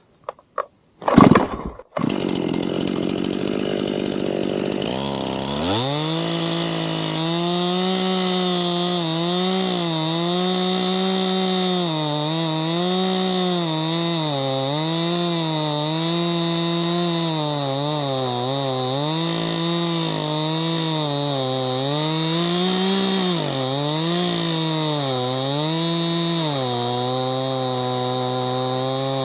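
Two-stroke chainsaw running at high revs and cutting wood, its engine pitch dipping and recovering as the chain bogs under load in the cut. It comes in with a brief loud noise about a second in and revs up sharply about five seconds in.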